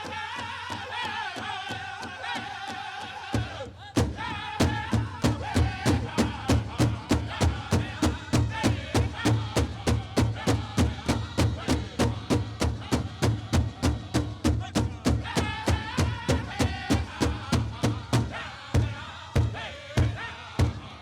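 Pow wow drum group singing a chicken dance song in high, pitched voices over a big drum struck by several drummers. About three and a half seconds in, the drumbeat turns much heavier and holds a steady, fast pulse of about three beats a second. Near the end the beat thins out to a few spaced strokes.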